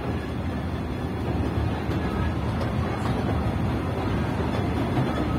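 Kurobe Gorge Railway open-air trolley car rolling slowly along the narrow-gauge track: a steady low rumble of wheels on rails, heard from inside the open-sided car, growing slightly louder.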